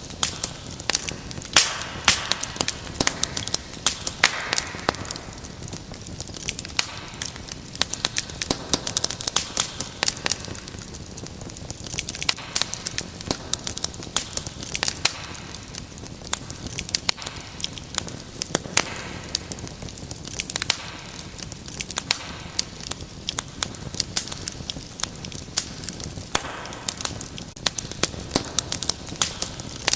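Wood fire crackling in a fireplace: many sharp, irregular pops and snaps over a soft hiss of burning.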